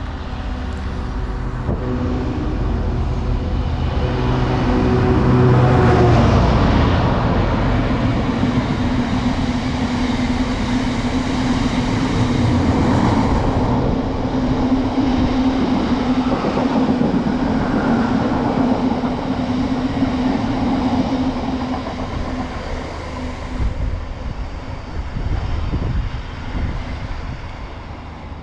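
Freight train passing through a station: the locomotive's engine builds up and is loudest about six seconds in, then the wagons roll by steadily, and the sound fades near the end.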